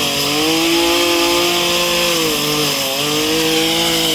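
Gas two-stroke chainsaw running at high revs while cutting through a tree limb. The engine note holds steady and dips slightly a couple of times under load.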